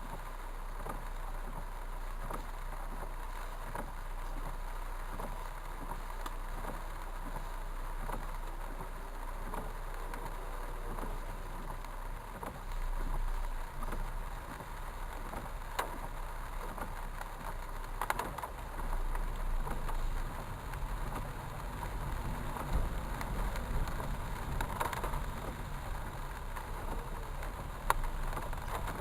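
Heavy rain with traffic passing on wet streets: a steady wash of noise over a low rumble, which grows louder partway through, with a few sharp knocks.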